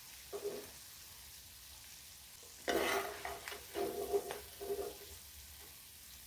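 Sabudana vadas sizzling faintly as they shallow-fry in ghee, with a few short scrapes of a slotted metal spoon against the pan as the fried vadas are lifted out. The loudest scrape comes about three seconds in.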